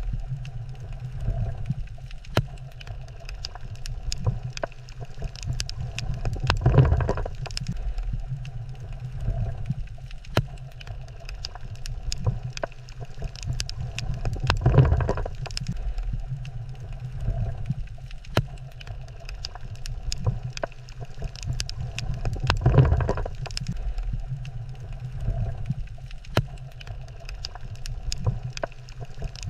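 Underwater ambience over a coral reef: a steady low rumble scattered with many sharp clicks and crackles, swelling into a louder rush about every eight seconds, three times.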